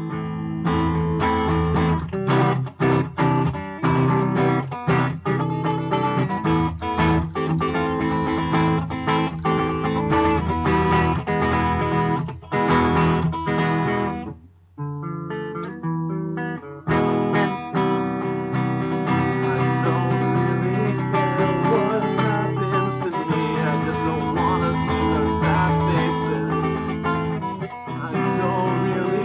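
Guitar strumming chords with no singing, an instrumental break in the song. The playing drops away briefly about halfway through, then picks up again.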